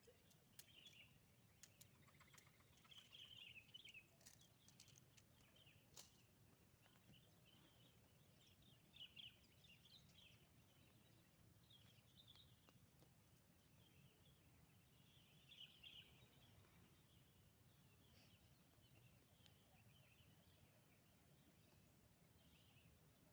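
Faint bird chirps at irregular intervals over a quiet outdoor background, with a few sharp clicks in the first several seconds.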